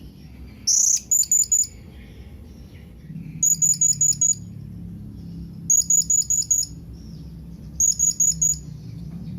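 Blue-crowned hanging parrot (serindit) giving its contact call to companions: four bursts of quick, high chirps, about five notes each, roughly two seconds apart. A faint low hum runs underneath.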